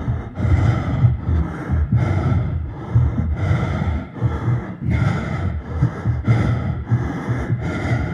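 A person panting heavily while running, loud rapid breaths in a steady rhythm of about two a second.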